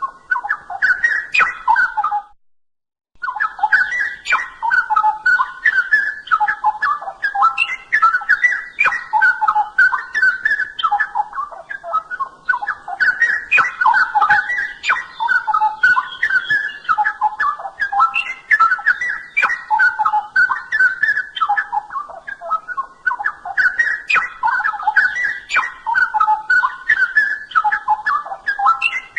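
Straw-headed bulbul (cucak rowo) singing continuously: a loud, rapid run of rich warbled phrases, breaking off for under a second a little over two seconds in, then carrying on.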